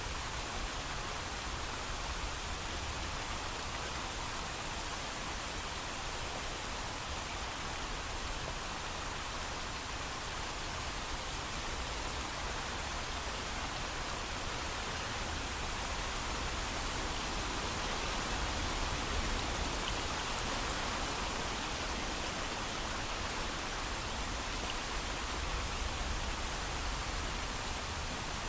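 Steady heavy rain, an even hiss of falling water with a low rumble underneath and no thunder.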